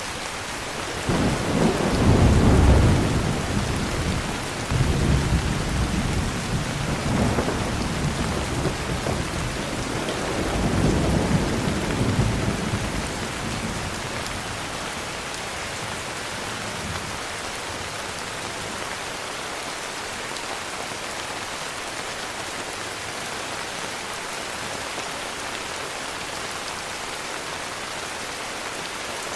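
Heavy rain falling steadily, with a long rumble of thunder beginning about a second in, loudest at the start and rolling on in several swells before dying away about halfway through.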